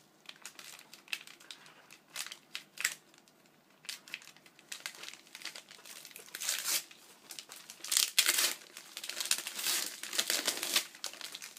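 Wrapping crinkling and rustling as a wrapped gift is pulled open by hand, in irregular bursts that get busier and louder in the second half.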